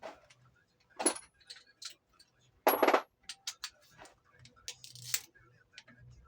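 Metal tools and engine parts clinking and knocking together: two louder metallic clanks, about a second in and just before the middle, each leaving a brief high ring, among scattered lighter clicks.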